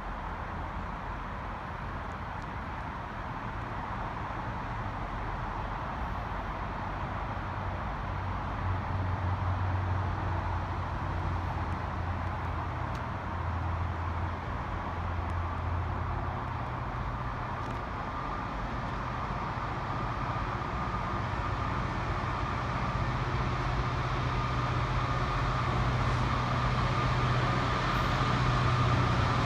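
A train approaching, its rumble and low hum growing steadily louder.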